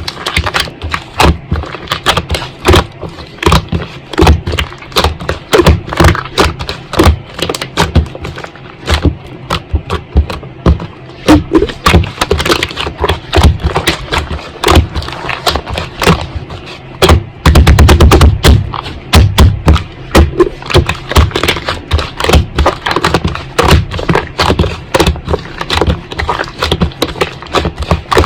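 Slime being squeezed, pressed and poked by hand, giving a dense run of wet clicks and pops, with a thick flurry of rapid pops a little past halfway.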